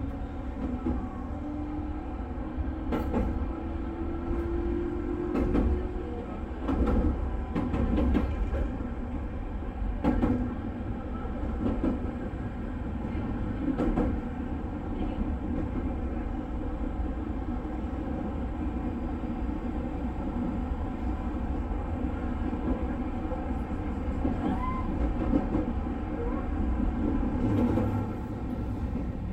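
JR West 221 series electric train running along the track: a steady low rumble with faint steady tones, and a few irregular clicks from the wheels over rail joints.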